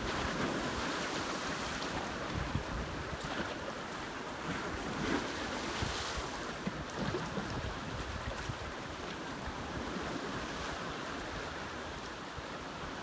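Wind buffeting the microphone over a steady rush of sea.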